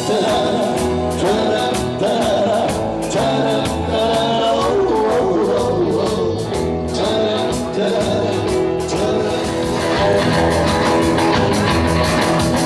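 Live rock and roll band playing an instrumental passage between vocal lines, with drums keeping a steady beat under bass and guitar.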